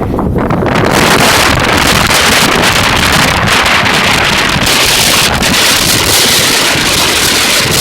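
Strong wind buffeting the microphone, a loud rushing hiss that swells about half a second in, mixed with the rumble of a passing freight train.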